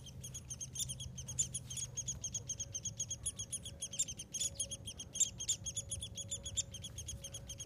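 Woodpecker nestlings begging inside the nest cavity: a continuous, rapid chatter of short, high-pitched calls, several a second.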